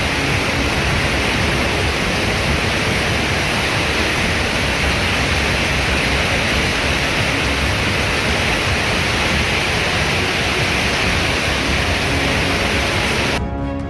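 Heavy rain in a windstorm: a steady, even rushing hiss with no rise or fall, which starts and stops abruptly.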